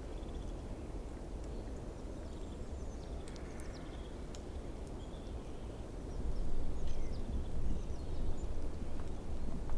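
Outdoor ambience: a steady low rumble that grows louder about six seconds in, with faint, scattered chirps of small birds.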